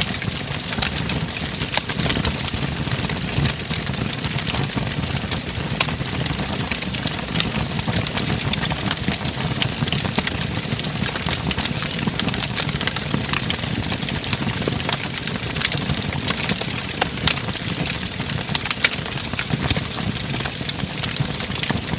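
Wood fire crackling in a fireplace: a steady low rumble of flames with a constant, irregular stream of sharp pops and snaps.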